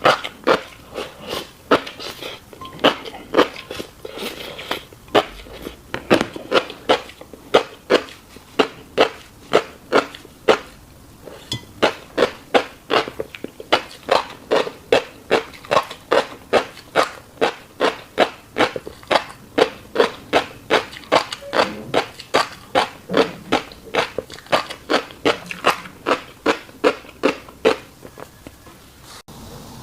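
Close-up chewing of fish roe: a steady run of wet mouth clicks, about two to three a second.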